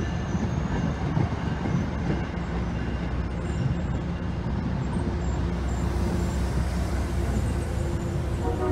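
A passing train rumbling steadily along the rails, the noise mostly deep, with faint thin tones above it.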